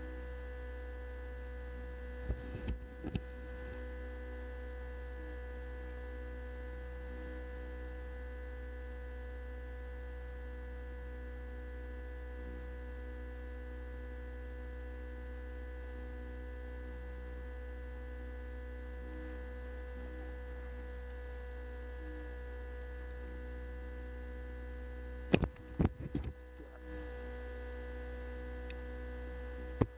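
Steady electrical hum with fixed, unchanging tones. It is broken twice by short clusters of sharp clicks, about two seconds in and again near the end.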